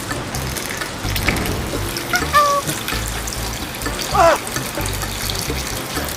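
Water running steadily, with music underneath and two short squeaky pitched sounds about two and four seconds in.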